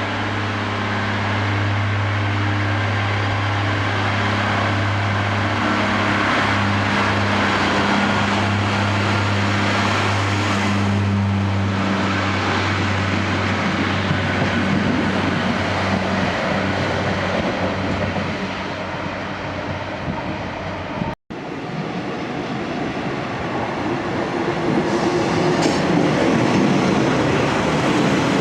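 Train at a railway station: a steady low engine hum over a broad rumble of running gear, the hum fading out about halfway through. After a brief break about 21 seconds in, the rumble builds again.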